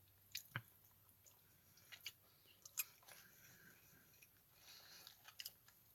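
Faint chewing, with a few short, sharp mouth clicks scattered through it.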